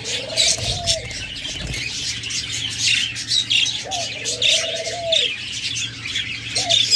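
Flock of budgerigars chattering and chirping continuously, with a dove cooing: two long coos of about a second each, one at the start and one around four seconds in, and a short one near the end.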